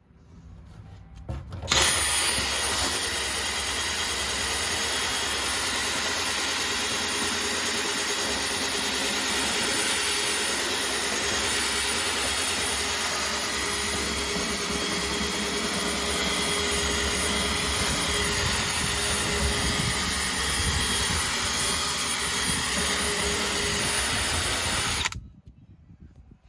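Electric drill spinning a 6-inch bristle scuffing brush against a Jeep TJ's painted floorboards, scuffing the gloss off ahead of a bedliner coat. It starts suddenly about two seconds in, runs steadily, and stops suddenly shortly before the end.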